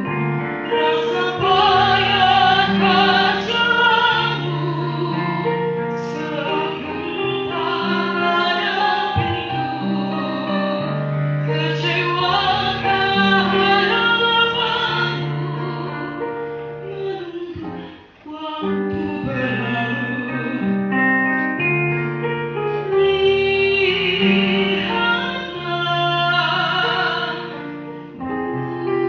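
A young woman's solo singing voice in a pop-opera style, holding long notes with vibrato over an instrumental accompaniment, with one short break between phrases about two-thirds of the way through.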